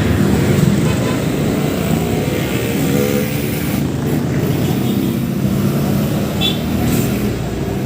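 Steady rumble of a motor vehicle or road traffic, with no sharp bangs.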